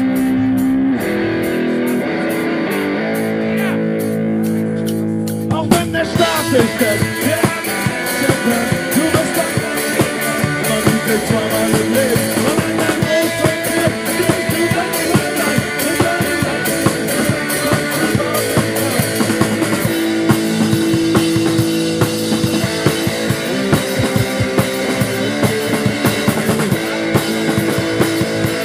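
Live rock band playing: held guitar chords at first, then about five seconds in the drums and the full band come in with a steady beat.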